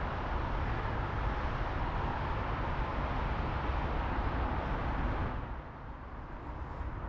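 Steady outdoor noise like passing road traffic, with a low rumble, easing off a little about five seconds in.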